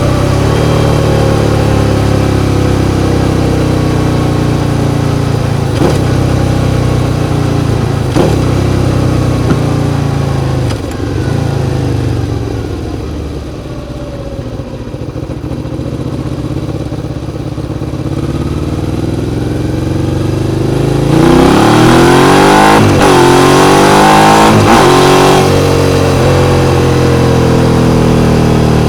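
Suzuki SV650's 645 cc 90-degree V-twin engine running, its pitch sinking slowly for the first dozen seconds and easing to a quieter stretch. About two-thirds of the way in it opens up loudly, revs sweeping up and down for a few seconds, then settles back.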